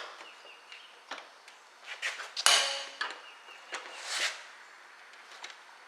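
Hand tools clicking and scraping on the 1964 Ford Thunderbird's loose side-mirror mount as it is tightened: scattered light clicks, with short scraping noises about two and a half seconds in and again about four seconds in.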